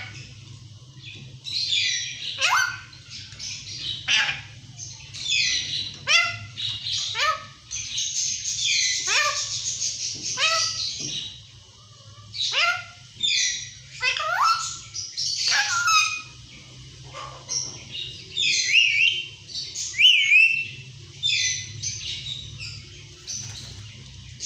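Pet parrot calling over and over, about one call a second: harsh screeches, many ending in a sharp falling whistle-like note.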